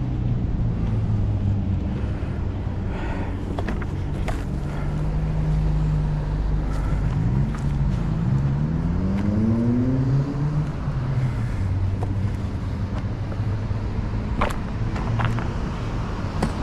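Road traffic rumbling steadily, with one vehicle's engine rising in pitch as it accelerates about eight seconds in. A few sharp clicks or knocks come through over it.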